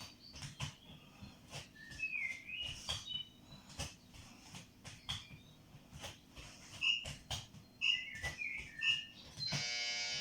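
A small bird chirping: short high chirps and little gliding whistles in two spells, over soft repeated knocks, with a brief buzzy tone near the end.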